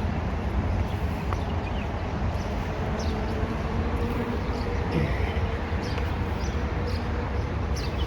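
Faint, scattered bird chirps over a steady low outdoor rumble, with a faint steady hum in the middle.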